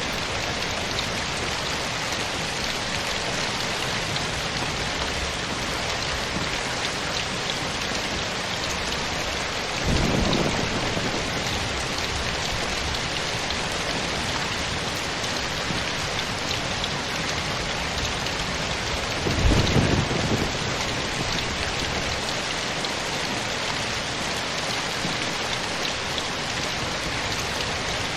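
Steady rain falling in an even hiss. Twice a short, low rumble of thunder breaks through it: once about ten seconds in and again, louder, near twenty seconds in.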